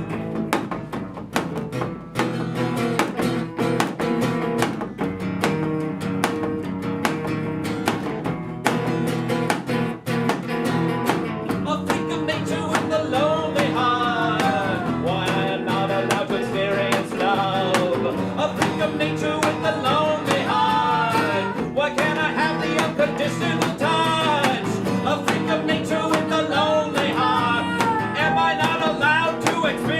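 Live band playing an instrumental break between verses: strummed guitar chords throughout, joined about twelve seconds in by a wavering lead melody that slides and bends in pitch.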